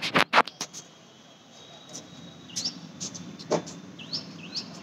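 A quick run of sharp clicks at the very start, then short high chirps from small birds, about four times, over a low steady hum.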